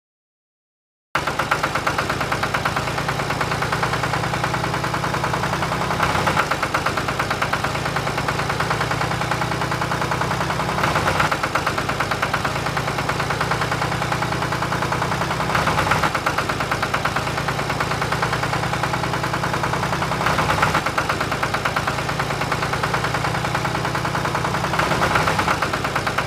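Tractor engine idling steadily, starting after about a second of silence, with a swell in level about every five seconds.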